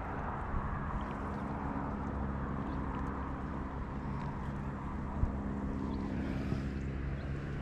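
Motorboat engine running steadily on the river: a continuous low, even drone.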